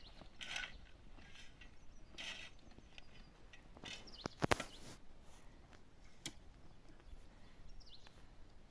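Stones being handled during dry-stone wall building: scraping and clacking against each other, with one sharp knock about four and a half seconds in. Faint short bird chirps come twice.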